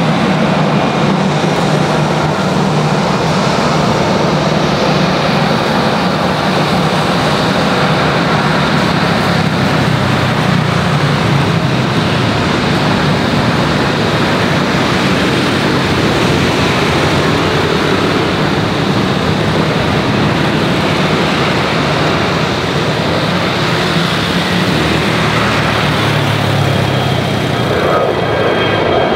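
Jet airliner engines running, a loud steady noise with a low hum underneath that holds level throughout.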